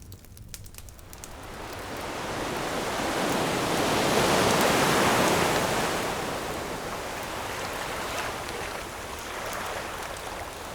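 An ocean wave breaks and washes up the shore, swelling to a peak about halfway through and then slowly drawing back. Faint campfire crackles can be heard near the start and the end.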